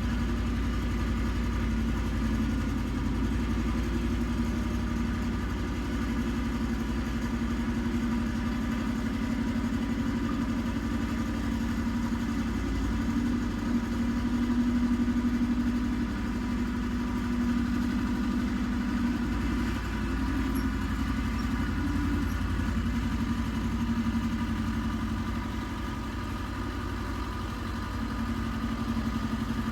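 Iseki compact tractor engine running steadily, with a low hum that swells a little about halfway through.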